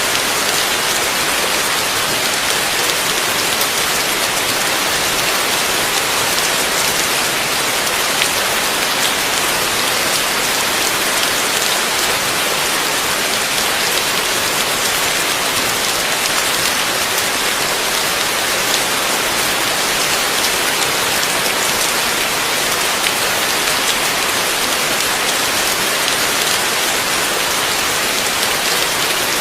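Heavy rain falling steadily, a dense even hiss of drops on surfaces with faint individual drop ticks.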